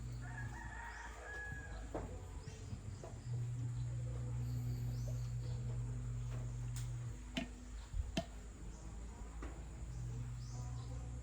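A rooster crowing once, from about half a second to two seconds in, over a steady low hum, with a few sharp clicks later on.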